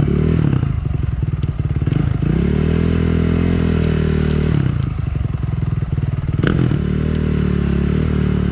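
Dirt bike engine running under throttle, its pitch dropping and climbing again several times as it is revved, with a sharp knock about six and a half seconds in.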